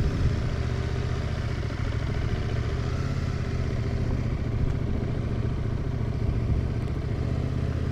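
CFMOTO 800NK's parallel-twin engine running steadily at low revs in first gear through a slow, tight parking-lot turn, with no revving.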